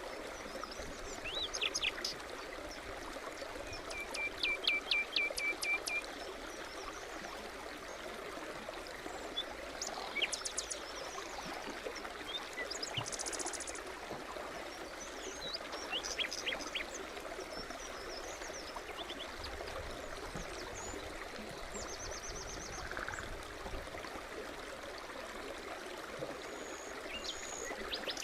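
A brook babbling steadily, with songbirds chirping and calling over it: a run of repeated notes about four seconds in and a high, fast trill near the middle.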